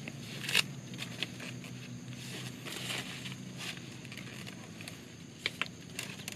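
Scattered crackles and snaps, a few sharp ones a second or so apart, with a light scraping noise and a faint steady hum underneath.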